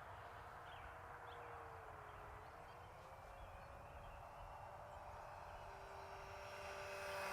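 Electric motor and propeller of a 4S-powered FMS Cessna 182 Skylane RC plane, faint and distant, a thin whine whose pitch wanders slowly; it rises in pitch and grows louder near the end as the plane comes in for a high-speed pass.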